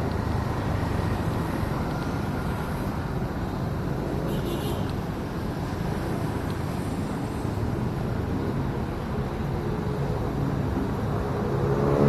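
Steady wind and road noise from a motorcycle ride, the rush of air over the helmet camera's microphone covering the engine.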